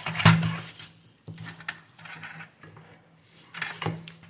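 Hands handling the control board and its power leads, making sharp plastic clicks and knocks as the connectors are plugged in, with a low electrical hum that comes and goes.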